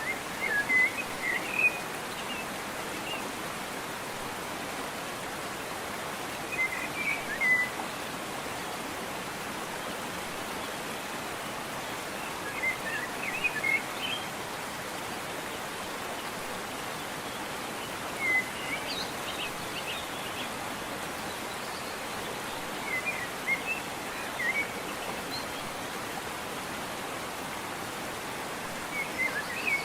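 Steady rushing of a waterfall, with a songbird singing short chirpy phrases over it about every five to six seconds.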